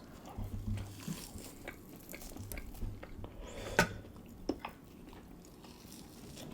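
Close-up eating sounds: chewing and biting into oven-baked pork ribs, with scattered small clicks and taps. The sharpest click comes nearly four seconds in.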